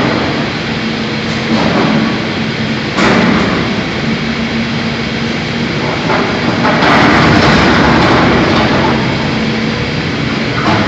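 Heavy forge-shop machinery running with a steady hum, louder surges coming about 3 seconds in and again near the 7-to-8-second mark.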